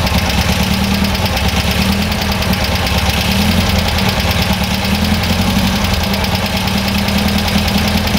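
Air-cooled VW bus flat-four engine with dual carburettors idling steadily and evenly, its idle freshly balanced between the two carburettors.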